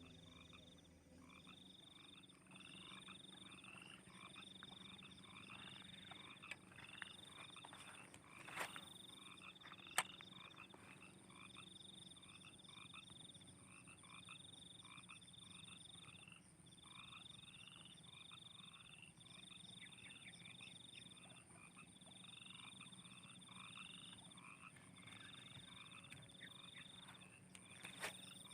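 Faint frog chorus: many short croaking calls overlapping and repeating about once or twice a second, over a steady high buzz. A sharp click sounds about ten seconds in.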